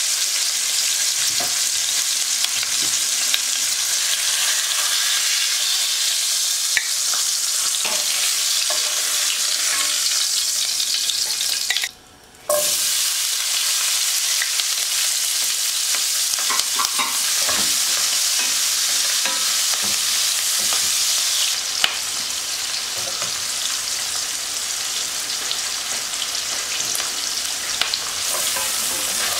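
Chicken thighs sizzling steadily in hot oil in a frying pan. After a half-second break about twelve seconds in, chopped onion sizzles in the pan, with a wooden spatula scraping and tapping as it is stirred.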